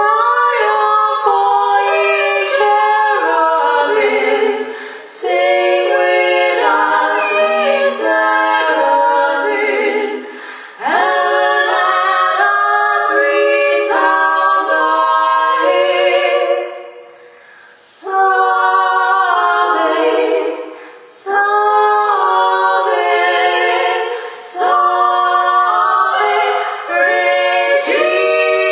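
Choir singing a cappella in phrases, with a few short breaks between them.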